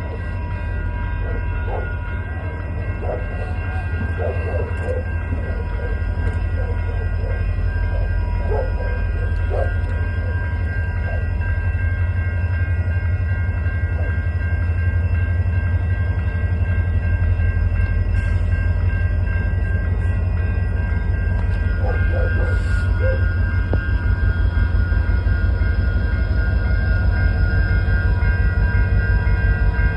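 Union Pacific freight train of empty intermodal cars rolling past: a steady heavy rumble of wheels on rail with a fast pulsing beat, growing slightly louder, with several steady high-pitched tones ringing over it.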